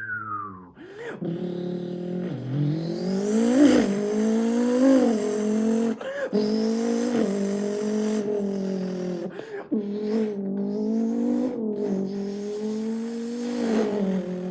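A man's mouth imitating a Porsche 911 GT2 RS twin-turbo flat-six engine. The pitch climbs and falls in rev-like sweeps, with short breaks about six, nine and a half and twelve seconds in.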